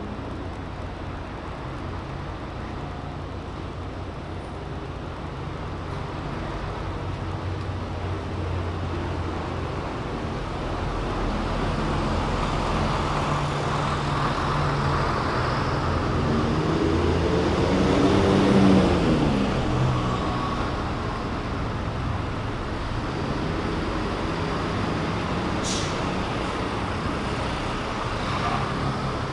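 Street traffic: a steady low hum of vehicles, with one vehicle passing close, loudest about two-thirds of the way through, its engine pitch falling as it goes by. A brief high-pitched sound near the end.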